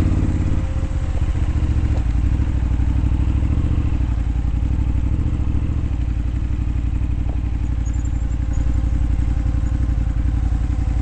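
Dirt bike engine running at a fairly steady speed with a rapid, even chugging, carrying on without a break.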